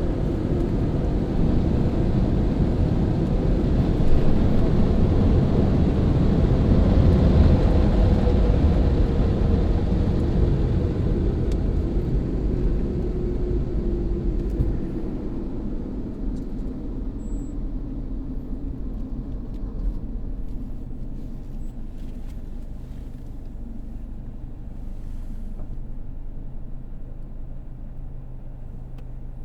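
Car wash air dryers blowing with a loud, steady rush, which fades away about halfway through and leaves a steady low hum.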